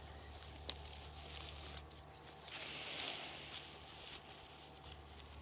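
Faint scraping of a shovel digging into frozen ground, with one longer scrape about three seconds in and a sharp click under a second in.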